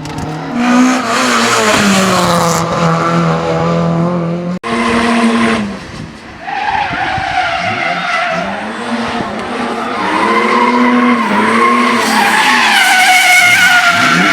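Hillclimb race car engines at full throttle, revs climbing and dropping through gear changes. A hard cut about four and a half seconds in switches to another car doing the same.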